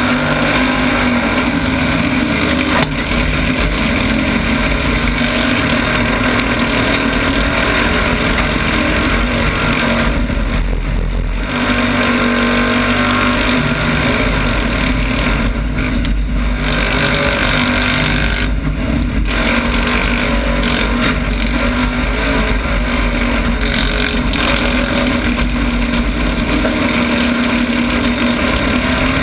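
Citroën 2CV cross racer's air-cooled flat-twin engine running hard under load, heard loud from inside the caged cabin. The sound dips briefly a few times.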